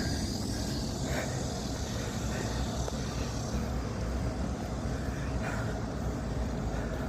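Cicada singing, a steady high buzz that stops about halfway through, over a low rumble.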